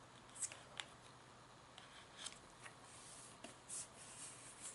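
Faint paper rustles and light taps as a paper card is set down and slid into place on a journal page, a few short scattered sounds.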